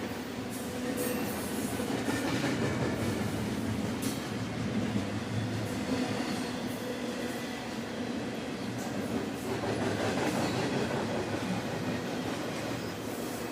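A train rolling along the rails, a steady rumble of wheels with a few faint clicks.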